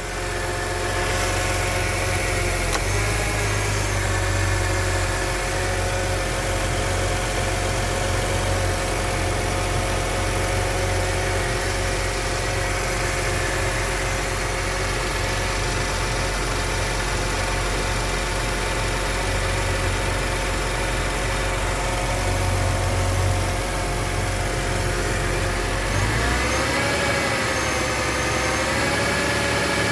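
2003 Porsche Boxster S 3.2-litre flat-six engine idling steadily on a partly cold start, with no funny noises. The idle speed wavers briefly a few seconds in and again near the end.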